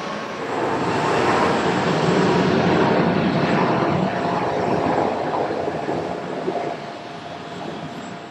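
Jet airliner passing, its engine roar swelling about half a second in, staying loud for several seconds, then fading.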